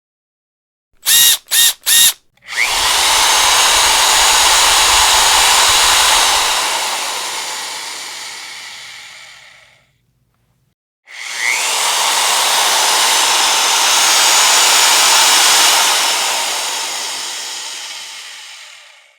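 Electric power drill: three quick trigger blips, then two long runs of the motor, each easing off gradually to a stop, with a second's pause between them.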